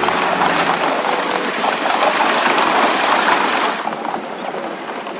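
Puffing Billy narrow-gauge steam train rolling along the track, heard from a carriage: a dense rattle and rush of wheels on rails. It turns duller and quieter about four seconds in.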